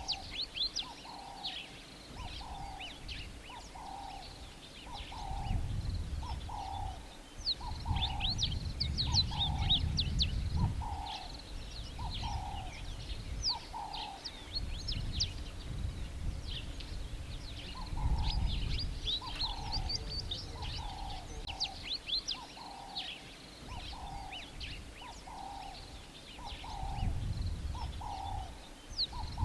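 Bush birdsong: many birds chirping at a high pitch, with one bird repeating a lower note over and over at a steady pace, pausing once partway through. Gusts of wind rumble on the microphone now and then.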